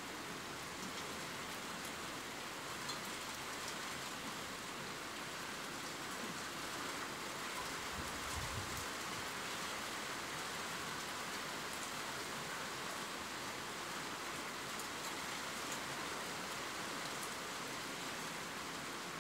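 Steady rain, an even hiss with scattered small drop ticks. There is a brief low rumble about eight seconds in.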